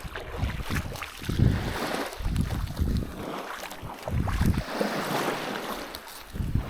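Water sloshing and splashing in uneven surges about once a second, with wind rumbling on the microphone.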